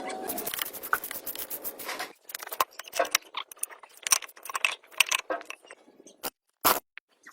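Hand work on metal parts: a scraping, rubbing noise for the first two seconds that stops abruptly, then irregular clinks, taps and knocks.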